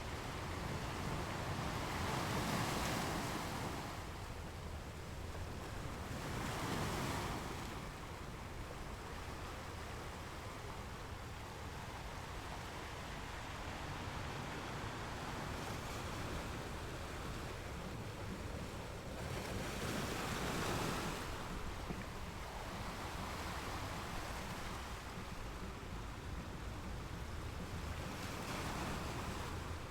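Ocean waves washing in over a steady background rush of surf, with louder swells breaking about three seconds in, at seven seconds, around twenty seconds and again near the end.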